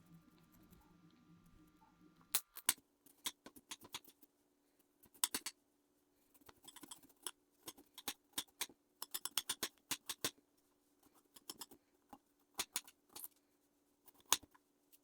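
Fresh ginger root being peeled: irregular short scraping strokes against the root's skin, in quick clusters, starting about two and a half seconds in.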